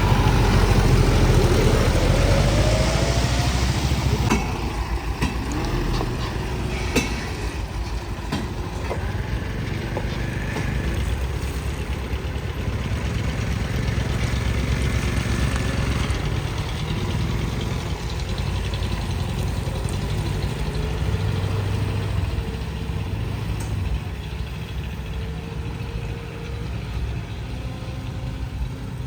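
Truck engine idling steadily. For the first four seconds it is louder, with a rising pitch like revving, then it settles to a steady idle.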